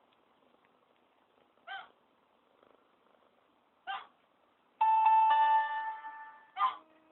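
A pet's short calls, three of them about two seconds apart, each a brief pitched cry. Near the middle, two piano notes struck in quick succession ring and fade, and are the loudest sound; a lower note comes in near the end and is held.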